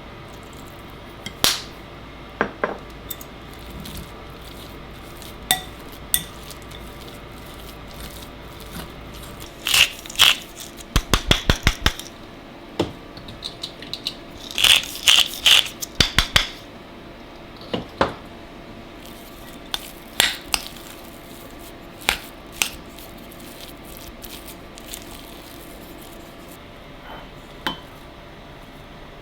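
Dishes, glassware and utensils clinking and knocking at scattered moments during kitchen work, with a quick, evenly spaced run of knocks about eleven seconds in and a cluster of bright clinks a few seconds later.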